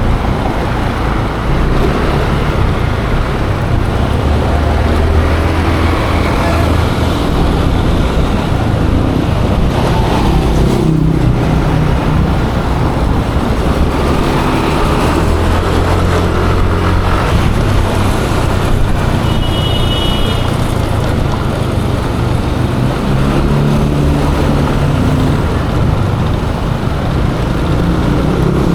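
Yamaha Aerox 155 scooter's single-cylinder engine running steadily on the move, with wind and road noise and other traffic around. A short high-pitched beep sounds about two-thirds of the way through.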